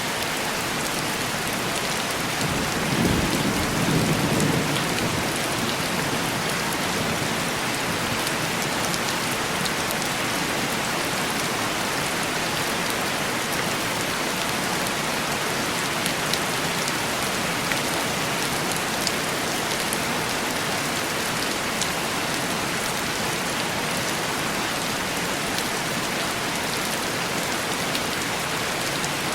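Heavy rain falling steadily and tapping on window glass, with scattered single drops standing out. A low rumble of thunder rolls in about three seconds in and fades after a couple of seconds.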